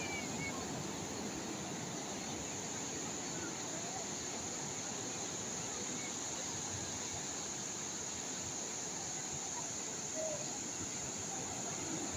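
Steady wash of calm sea waves, with a steady high-pitched buzz of insects over it and a few faint short chirps.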